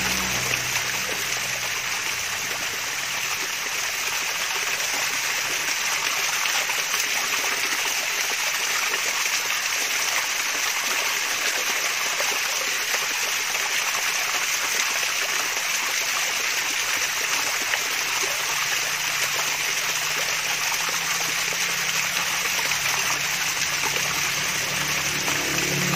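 Small waterfall, water splashing and trickling steadily without a break.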